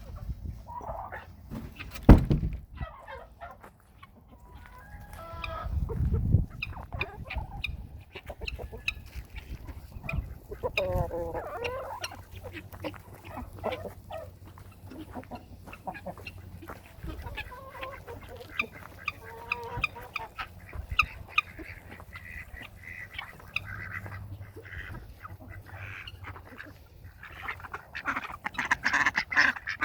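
Backyard poultry calling: chickens clucking amid other fowl calls, thickening into a denser chorus near the end. A single sharp knock about two seconds in.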